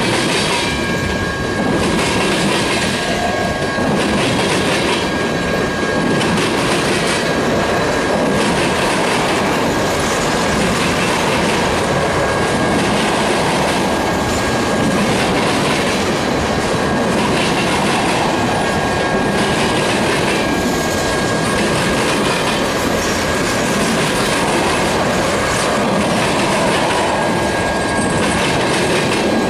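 Loaded tank cars of a freight oil train rolling past at close range: a steady rumble of steel wheels on rail with recurring clacks as wheelsets cross the rail joints, and a thin steady high tone running through.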